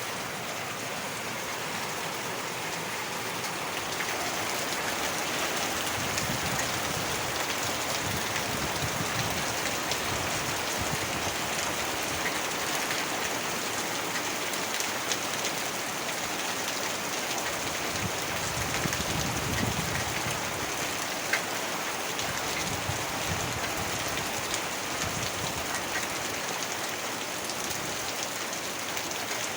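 Heavy rain falling steadily, with a low rumble swelling now and then beneath it.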